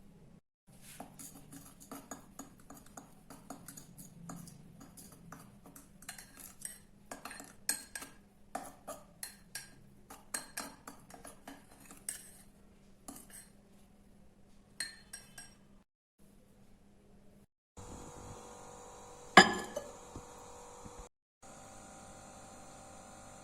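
A metal spoon clinking and tapping against a mug or bowl while mixing, in quick irregular strikes for about fifteen seconds. After a short silence a steady hum starts, with one loud sharp click a couple of seconds in.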